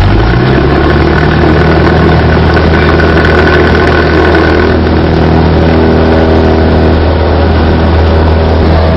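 Cessna 172's piston engine and propeller winding up to full throttle within the first half second, then running loud and steady at full power for the takeoff roll.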